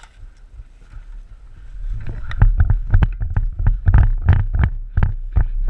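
Rapid, irregular thumps and rustling with low rumble, starting about two seconds in and growing loud: a player's footsteps and gear jostling the worn camera's microphone as he moves, with wind on the microphone.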